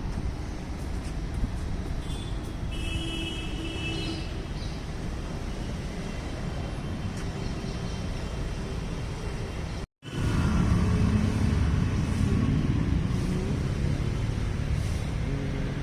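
Steady outdoor background rumble, with a brief high tone about three seconds in; the sound cuts out for a moment near ten seconds in and comes back louder.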